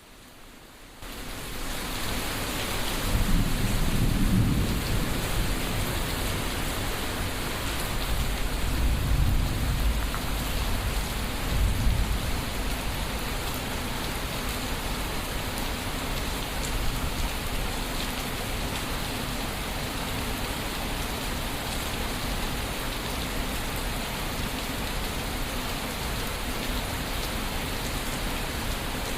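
Heavy steady rain, which builds in within the first second. Deep thunder rolls rumble low through the first half, the loudest about twelve seconds in; after that the rain continues alone.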